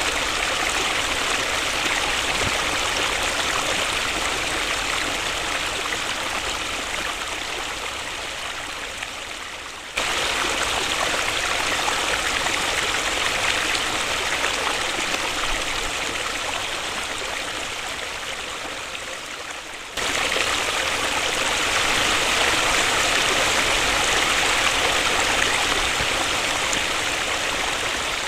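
Waterfall: a steady rush of falling water, strongest in the upper-middle range. The level sinks slowly and then jumps back up abruptly every ten seconds or so, where the recording is cut.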